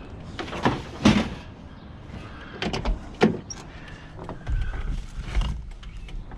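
A series of knocks and clunks from scrap being handled and moved: four sharp knocks in the first few seconds, then a heavier rumbling thud near the end.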